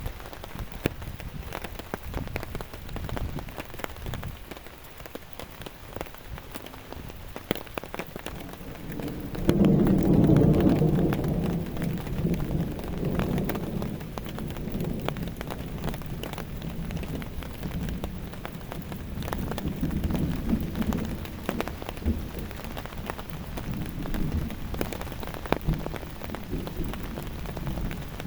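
Steady rain with many drops ticking as they land. About ten seconds in, a loud roll of thunder rumbles and fades over several seconds, with fainter rumbles later.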